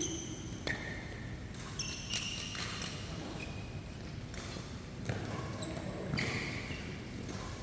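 Badminton doubles rally: players' shoes squeaking on the court floor in many short, high squeaks, with occasional sharp smacks of rackets on the shuttlecock.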